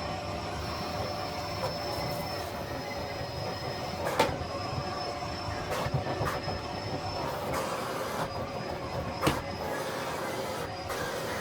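Miele Blizzard CX1 bagless vacuum cleaner running steadily with a constant whine. A few sharp clicks cut through it, the loudest about four seconds in and another about nine seconds in.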